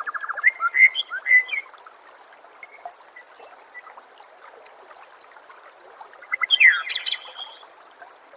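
White-rumped shama (murai batu) singing: a phrase of rapid repeated notes and rising whistles at the start, then another phrase of sweeping and clear whistled notes about six and a half seconds in. A steady trickle of water runs underneath.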